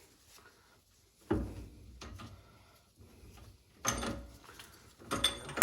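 Heavy steel differential parts knocking and clanking in a Chrysler 8.25 axle housing as the carrier bearing caps come off and the carrier is worked loose: a dull knock about a second in, another near four seconds, then a sharper clatter with a metallic ring near the end.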